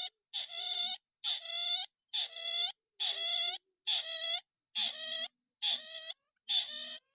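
Crake (burung tikusan) call repeated steadily, about one harsh, buzzy note a second, each note lasting just over half a second.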